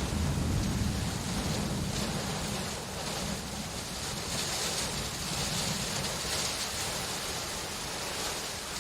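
Steady rainfall hissing, with a low rumble of distant thunder that fades out about three seconds in.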